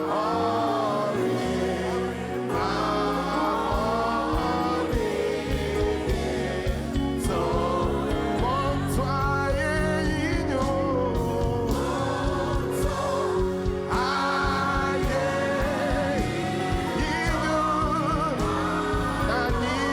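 Gospel worship music: singing over a band with sustained bass notes and a steady beat.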